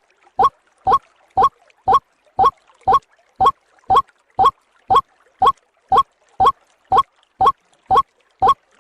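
White-breasted waterhen (ruak-ruak) lure call: a short, slightly rising 'ruak' note repeated evenly about twice a second, the looped call recording used to attract waterhens.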